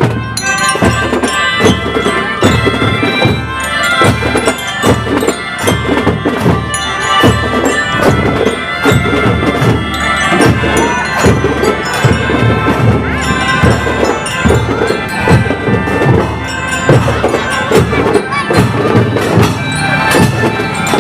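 Children's school drum band playing: marching drums beat a steady, dense rhythm under a sustained melody line.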